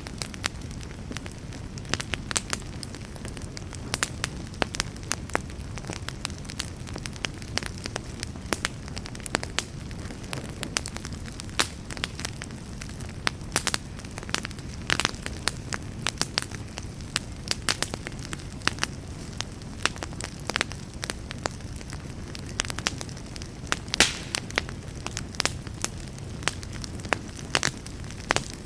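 Wood campfire burning: irregular sharp crackles and pops over a steady low rumble of flame, with one louder pop late on.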